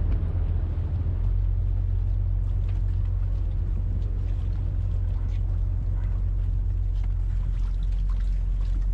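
A boat motor running steadily at a constant low hum.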